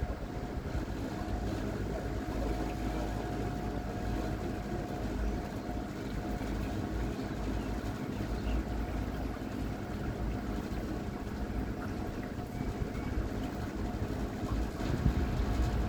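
Electric boat motor running steadily with a thin constant whine, over rushing water and wind noise.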